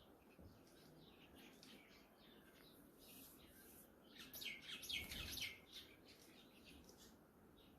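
Small birds chirping and twittering faintly, with a louder quick run of chirps a little past halfway.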